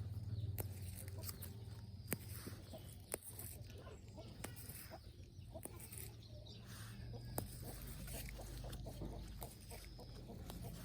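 Chickens clucking faintly over a steady low hum, with a few sharp clicks scattered through.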